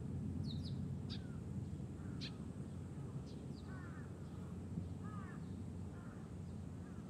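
Birds calling over a steady low rumble: a scatter of short, high chirps in the first half, then several short, lower calls that rise and fall, from about four seconds on.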